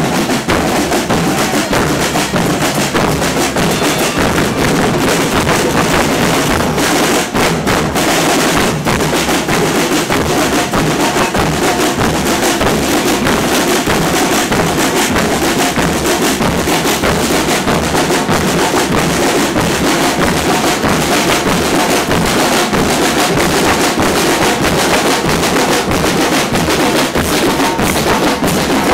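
Carnival drum troupe playing without pause: bass drums and other percussion beating a dense, steady rhythm.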